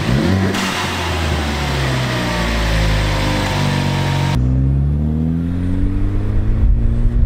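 Ford Focus ST's turbocharged 2.0-litre four-cylinder engine on a test drive, heard from inside the cabin. The revs rise briefly, ease down over a few seconds, then after an abrupt cut a little over four seconds in, climb steadily as the car accelerates.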